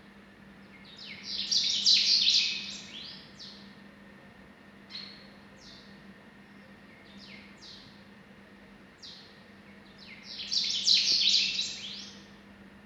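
A small bird singing: two bursts of rapid, high, downslurred notes about eight seconds apart, with single short falling call notes between them.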